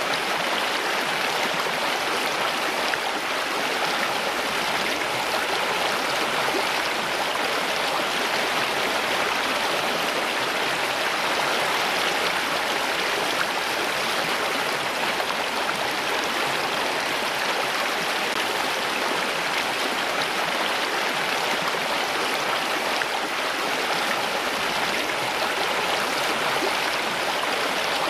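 Steady flowing water, like a stream rushing over rocks, with an even, unbroken sound.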